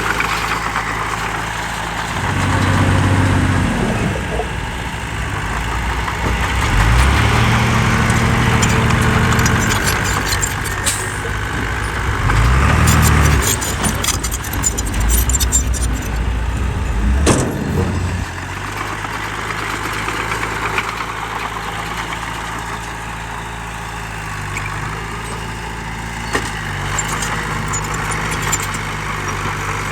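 A heavy diesel engine revs up and back down in several surges, with scattered knocks and clatter. About 18 seconds in it settles to a steady idle.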